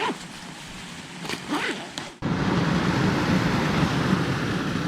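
A loud, steady rushing noise that starts abruptly about two seconds in, after a quieter stretch with faint voices.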